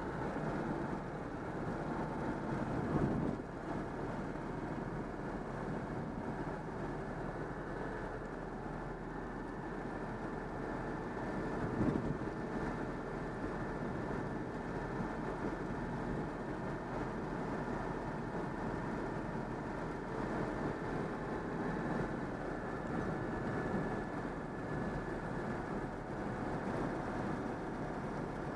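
Citroën 2CV's freshly overhauled air-cooled flat-twin engine running steadily while driving, with two brief thumps about 3 and 12 seconds in.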